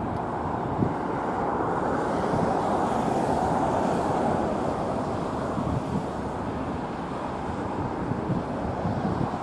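Wind buffeting the microphone in gusts over a steady distant engine rumble that swells a little a few seconds in and then eases.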